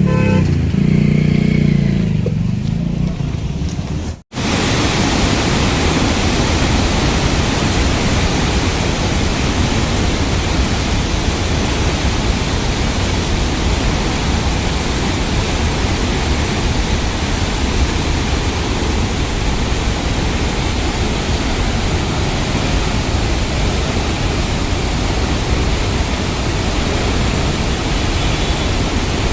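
Water pouring through the opened spillway gates of a dam: a loud, steady, even rush that starts abruptly about four seconds in, after a short low drone.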